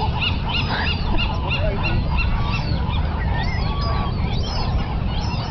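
Many gulls calling over one another: short cries repeated rapidly and overlapping throughout, over a steady low rumble.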